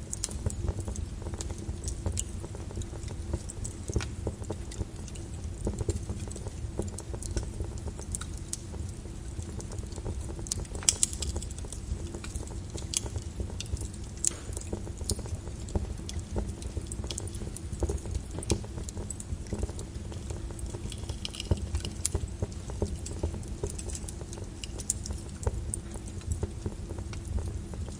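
Lava crackling over a steady low rumble, with many irregular sharp pops and clicks and one louder crack about a third of the way through.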